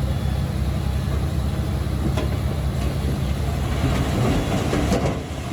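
Crawler bulldozer's diesel engine running steadily, with the clatter of its steel tracks and a couple of sharp metallic knocks.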